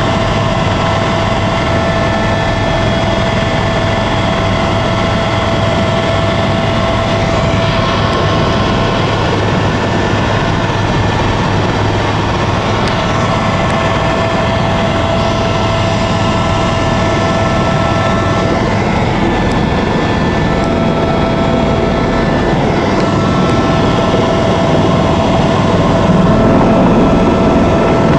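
Helicopter in flight heard from inside the cabin: steady rotor and engine noise with a constant high whine, getting a little louder near the end.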